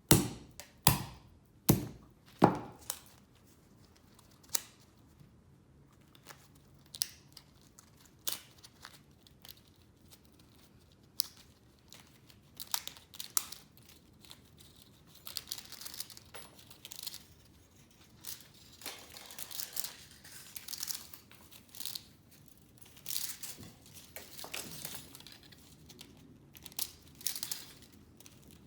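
Vacuum cleaner scrap being taken apart by hand: a few loud, sharp cracks and snaps in the first seconds, scattered clicks after that, then a long stretch of scraping, tearing and crinkling from about halfway through.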